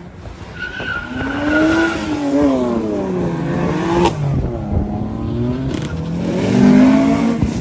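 A car engine revving hard, its pitch climbing and dropping again and again, with a sharp pop about four seconds in.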